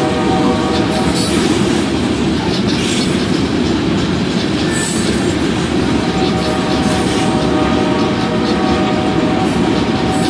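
Freight train of loaded tank cars rolling steadily past: a continuous rumble of steel wheels on rail, with brief high wheel squeals now and then.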